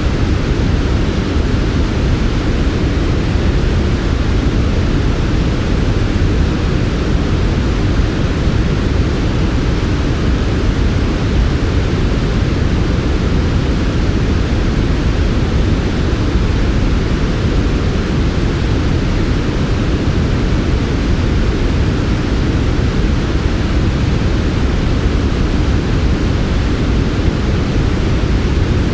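Steady electronically generated sleep noise, smooth and unchanging, its hiss weighted toward the low end, with a deep rumble under a softer upper hiss.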